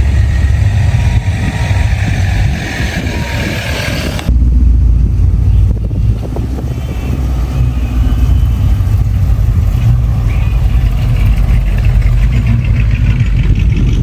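Classic car engines running deep and loud as the cars drive off. About four seconds in the sound changes abruptly, and the low engine sound becomes louder and fuller.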